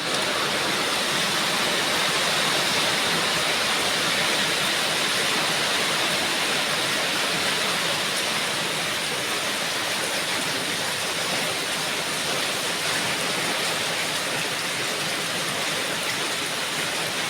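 Steady heavy rain falling, an even rushing hiss with faint scattered drop ticks.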